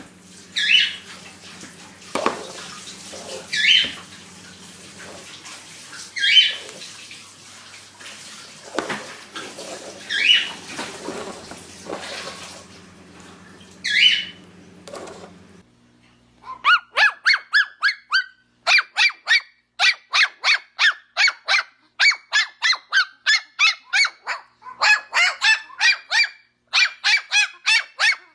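Cockatiel calling: loud single calls every few seconds over a low steady hum. Past the middle the sound changes to a fast run of short repeated chirps, about three a second.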